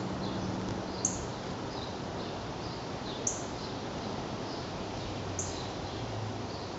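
Northern cardinals giving sharp, high chip calls, one about every two seconds, with fainter chirps between, over steady outdoor hiss.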